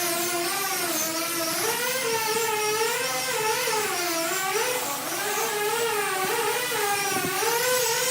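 Electric power tool motor whining steadily, its pitch dipping and recovering again and again as the load on it changes.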